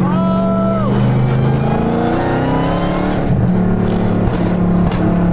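Car engine running, with a rev that rises in pitch about two seconds in.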